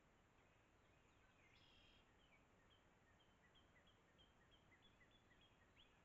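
Faint bird calling: from about two seconds in, a run of short high chirps repeats at roughly three a second over a low steady hiss.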